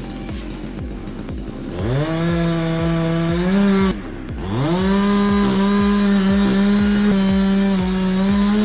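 Chainsaw engine revved up and held at high speed, dropping off briefly about four seconds in and then revving up again and holding steady; a steady beat of background music runs underneath.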